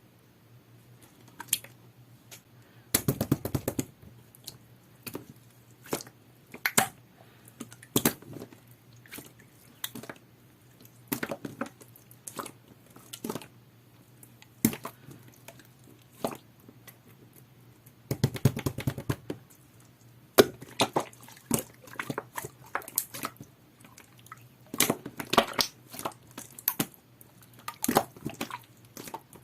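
Clear, jelly-textured slime being squished and poked by hand, making irregular sticky pops and clicks, with two longer bursts of squelching, about three seconds in and again around eighteen seconds.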